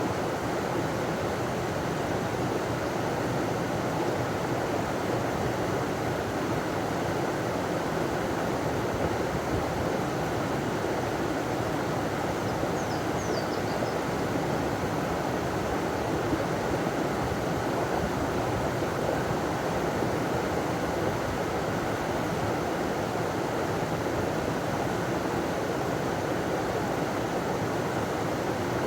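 River water rushing steadily over a small waterfall, a dense even roar of running water. A brief faint high chirp sounds about halfway through.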